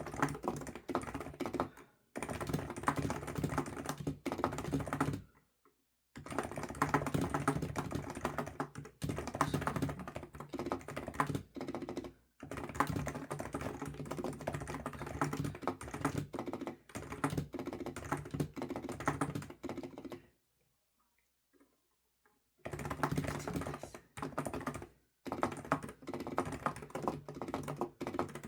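Fast typing on a computer keyboard: dense runs of key clicks broken by a few brief pauses, the longest about two seconds long, around two-thirds of the way through.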